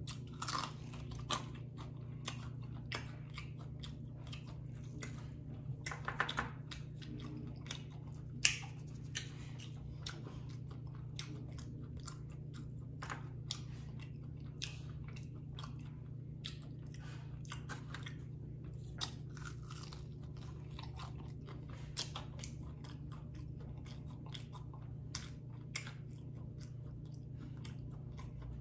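Chewing of crunchy fried chicken wings: many small crisp crunches and mouth clicks, with a few louder crunches around six and eight seconds in, over a steady low hum.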